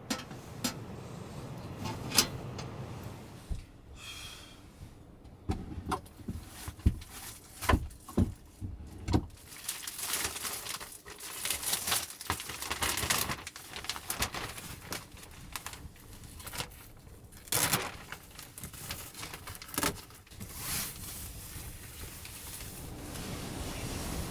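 Objects being handled at close range: a run of sharp clicks and knocks, with rustling and clinking in between.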